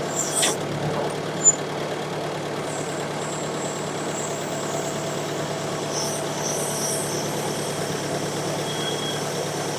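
The four-cylinder gasoline engine of a 1954 Ford NAA tractor running steadily, with a short tick about a second and a half in.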